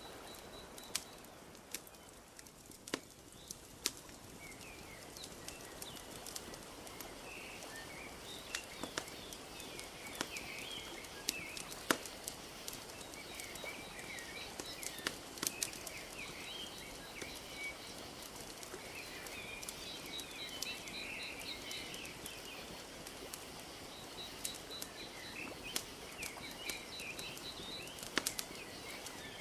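Wood fire crackling with irregular sharp pops over a steady wash of lapping lake water, with small birds chirping and trilling throughout, busier from about six seconds in.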